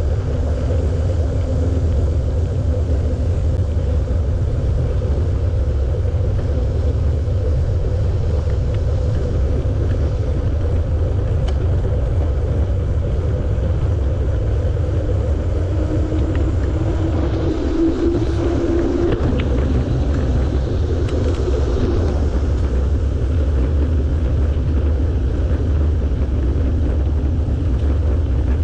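Steady low rumble of wind on the microphone and tyre noise from a bicycle being ridden, with a brief higher hum about two-thirds of the way through.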